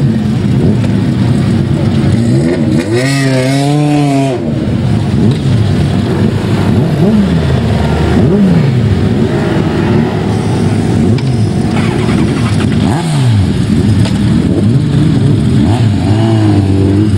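Racing motorcycles at speed going past one after another, their engine notes sweeping up and down in pitch as they pass and change gear. The strongest pass comes about three seconds in.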